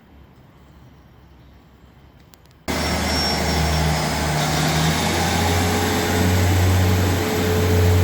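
Quiet background for under three seconds, then a sudden cut to a loud passing train: a steady rushing noise over a low, uneven engine drone.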